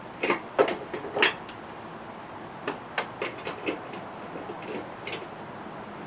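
Sharp metal clicks and clinks from hand tools and parts being handled while reassembling a mower deck spindle: three loud clicks in the first second or so, a quicker cluster about three seconds in, and a few fainter ones near the end.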